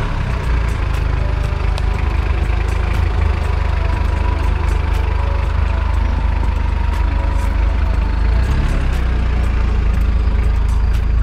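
Off-road 4x4's engine running steadily at low revs as the vehicle crawls slowly past on a dirt trail, with scattered light clicks over the drone.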